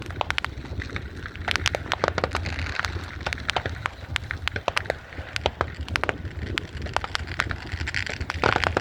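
Fireworks crackling: many sharp pops and cracks in quick, irregular succession, over a steady low rumble.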